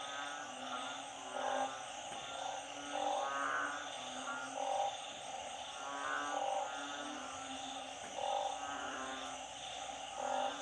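Chorus of narrow-mouthed frogs and small frogs calling, the breeding chorus that follows storm flooding. Short pulsed croaks repeat every second or so over a steady high-pitched drone.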